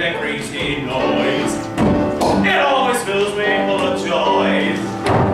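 Singing with musical accompaniment, the voice lines rising and falling.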